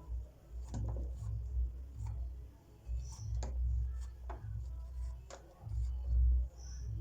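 Scattered light clicks and taps at an irregular pace over a low rumble, from hands handling freshly picked mushrooms while cleaning the dirt off them.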